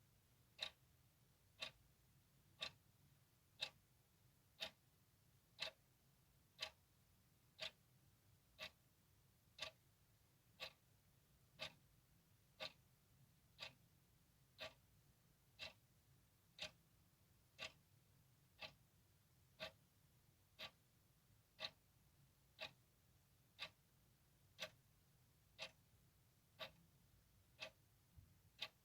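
A clock ticking steadily, one short sharp tick about every second.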